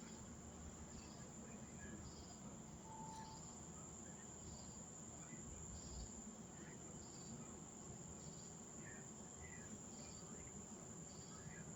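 Crickets chirping: a steady high trill, with a second insect giving short chirps at an even beat of roughly one a second, over faint low background rumble.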